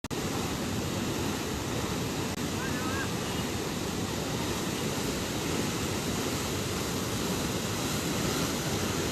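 Floodwater rushing steadily, a continuous noise heaviest at the low end.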